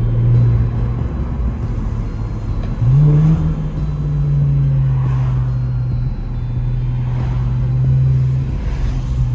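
Infiniti Q50 with its muffler deleted, exhaust droning at low revs; about three seconds in the revs rise briefly as it accelerates, then settle back to a steady drone.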